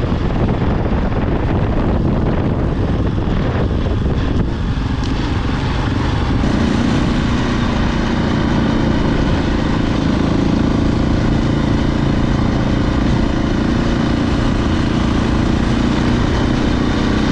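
KTM 690 Enduro R single-cylinder engine running with wind rush on the microphone. About six seconds in, the rush eases and the engine settles into a steady, even note.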